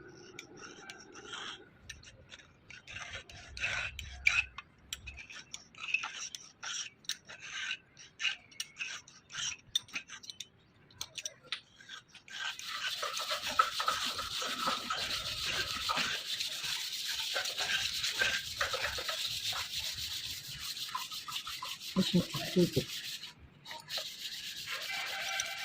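Hand rubbing against the metal of a Deutz engine cylinder head: scattered short scrapes and clicks at first, then from about halfway a steady rasping rub.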